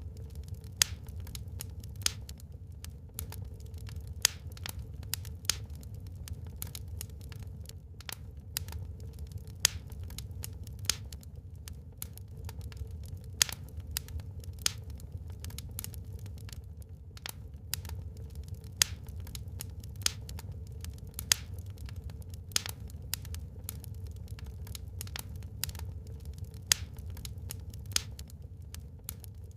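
Wood fire burning in a fireplace, crackling: irregular sharp pops and snaps, a few much louder than the rest, over a steady low rumble.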